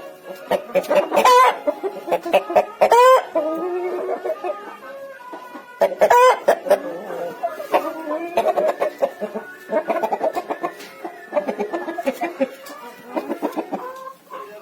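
A flock of Aseel chickens clucking and calling over one another, with several louder, short crowing calls standing out among them.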